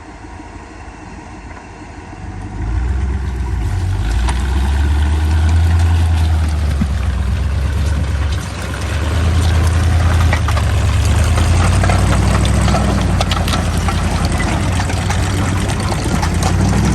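Tucker Sno-Cat's engine running as the machine is driven, building to a loud steady rumble about three seconds in and easing briefly near the middle. A rattling clatter from the machine runs over it.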